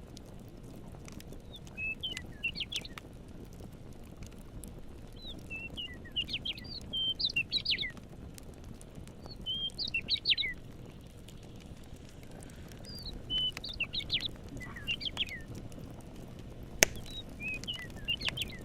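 A songbird singing short, quick warbled phrases again and again, every couple of seconds, over a steady low rumble of outdoor ambience with faint crackles. A single sharp pop sounds near the end, like a campfire log popping.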